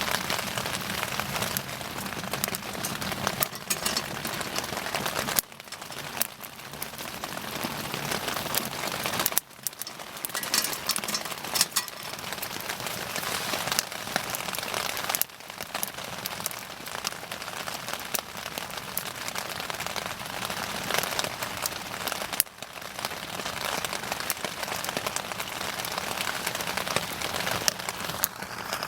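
Wood bonfire burning with dense, continuous crackling, sharp pops scattered all through it. The level drops suddenly for a moment four times.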